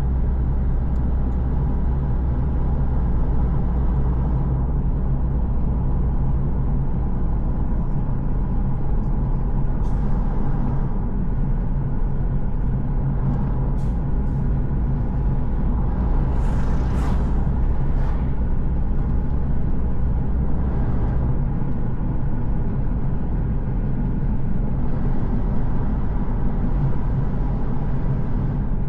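Car driving along a road: a steady low engine and road rumble, with a few short hisses a little past the middle.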